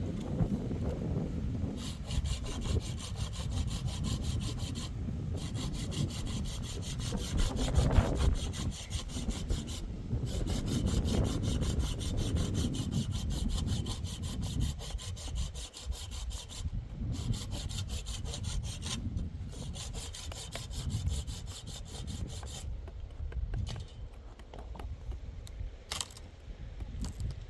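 A steady, fast, even rasping with a few short pauses, over a low rumble.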